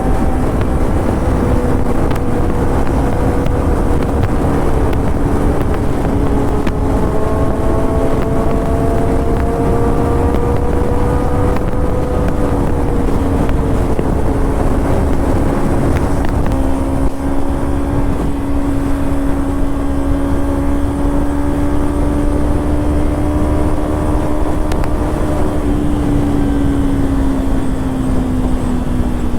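Kawasaki Ninja 300's parallel-twin engine and exhaust running at a steady cruise, its pitch holding nearly level and dipping slightly near the end, with wind noise on the microphone underneath.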